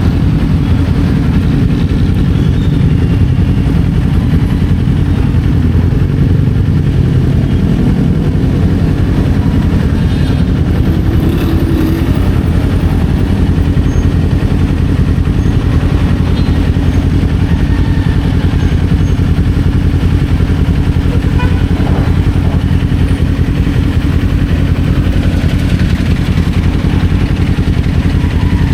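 Kawasaki Z400 parallel-twin engine running as the motorcycle is ridden, heard from the rider's position, holding a steady level throughout.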